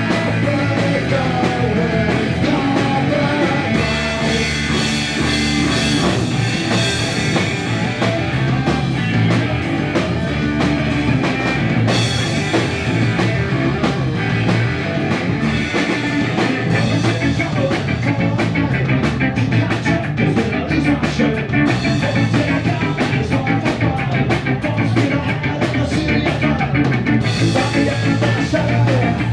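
Punk rock band playing, with guitars, drum kit and singing. Fast, even drumbeats run through the second half.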